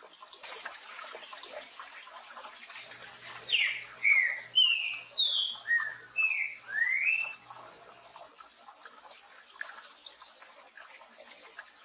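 Green-winged saltator (trinca-ferro) singing one phrase of about seven loud slurred whistles, its 'tio joão pedro boi' song, starting a few seconds in. Steady rain hisses behind it throughout.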